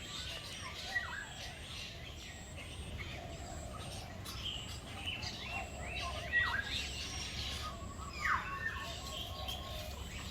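Several birds chirping and calling, with many short notes that sweep quickly up and down in pitch, over a steady low background rumble.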